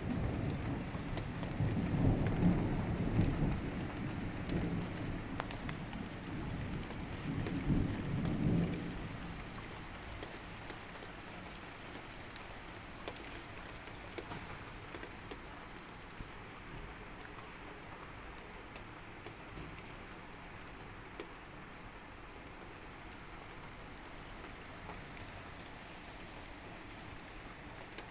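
Thunderstorm: a long rumble of thunder over steady rain for roughly the first nine seconds, fading out, then steady rain with scattered sharp drip sounds.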